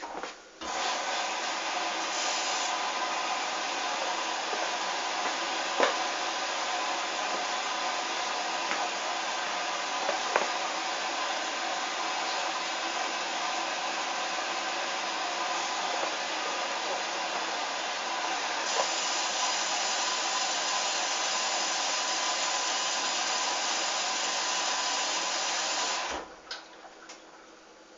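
Hoover washing machine taking in water: a steady hiss of water rushing in through the inlet valve. It starts abruptly about a second in and cuts off suddenly near the end, as the valve shuts.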